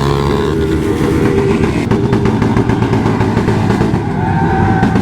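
Motorcycle engines running and revving loud and close.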